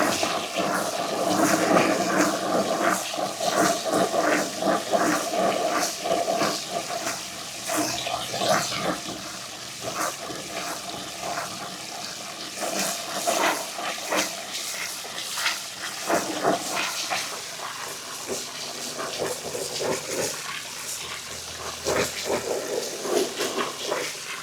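Many marbles rolling down a long marble-run ramp: a steady rolling rush, dense with small clicks as the marbles knock against each other and the track.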